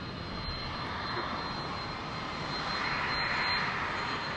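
Jet airliner engines passing, a steady rushing noise that grows gradually louder about three seconds in, with a thin steady high whine over it.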